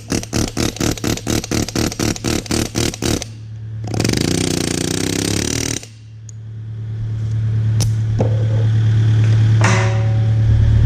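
Kubota KX057-5 excavator's engine running steadily. For the first three seconds it is overlaid by a rapid run of sharp knocks, about six a second. A loud rushing hiss lasts about two seconds, starting around four seconds in, and a single click follows.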